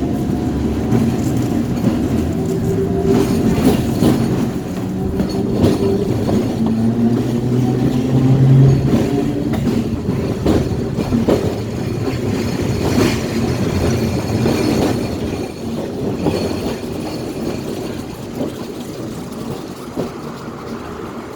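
Electric streetcar running along the track, heard from aboard: a steady motor hum with the wheels clicking and clattering over rail joints, and a thin high wheel squeal about two-thirds of the way in. It grows a little quieter near the end.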